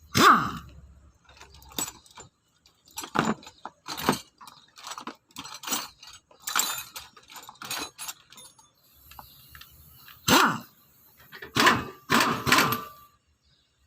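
Irregular sharp clanks and knocks of metal tools and parts during hands-on car repair, several with a brief ringing after the strike. The loudest come right at the start and again about ten seconds in.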